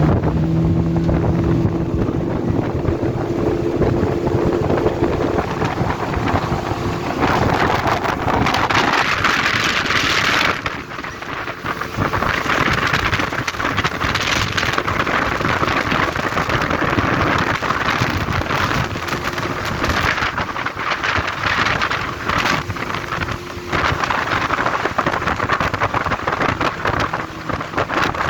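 Yamaha 30 outboard motor running steadily with the boat under way. Its engine note is clear for the first several seconds, after which heavy wind buffeting on the microphone and rushing water noise largely cover it.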